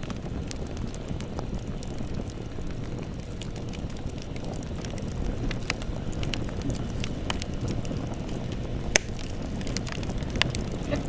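Campfire burning: a steady low rumble of flame with scattered crackles and pops from the burning wood. The sharpest pop comes about nine seconds in.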